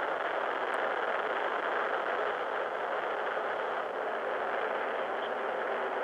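Steady rushing roar of an Atlas V rocket climbing away on its RD-180 main engine and solid rocket booster, heard through a live-stream feed played on a phone, which strips out the deep rumble and the top end.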